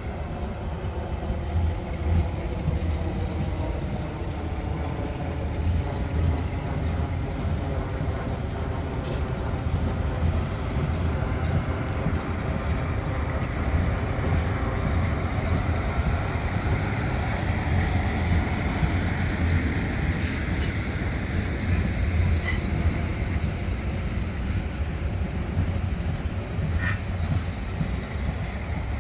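Electric multiple-unit passenger train running through the station: a steady rumble of wheels on rail with a motor whine that rises and falls, and a few sharp clicks.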